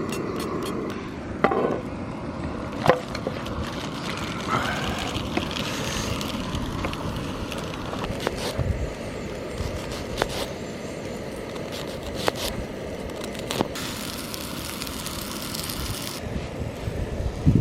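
Sausages frying in a pan on a camping stove: a steady sizzling hiss, with a few sharp knocks and clicks of the pan and utensils.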